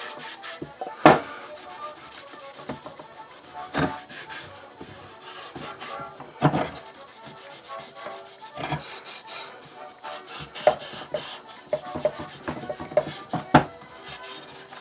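Scrubbing the wooden body of an old hand-crank coffee grinder to clean off old residue: a quick, continuous run of rubbing strokes. A few louder knocks land about a second in and every few seconds after.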